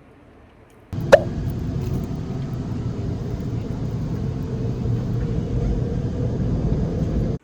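Steady low rumble of a vehicle in motion, starting abruptly about a second in. There is one sharp, loud knock just after it begins, and the rumble stops abruptly at the end.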